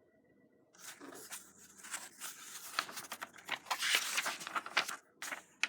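A bag of tomatoes being sat on and crushed: crinkling and crackling with many sharp snaps, starting about a second in and lasting about four seconds, with two short crackles at the end.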